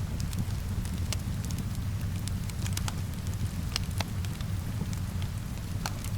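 Wood fire crackling, with sharp irregular pops, over a steady low rumble and hiss of rain.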